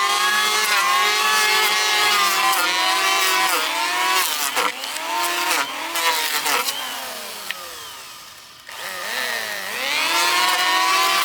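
Chainsaw running at high revs, its pitch dipping again and again as it bogs down. About eight seconds in it eases off, then revs back up.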